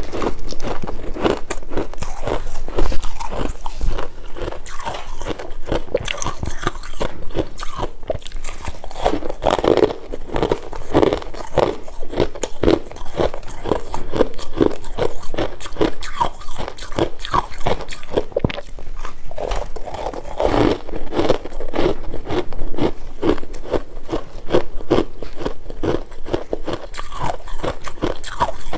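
Close-miked biting and chewing of chunks of freezer frost, a fast, uneven run of crunches one after another.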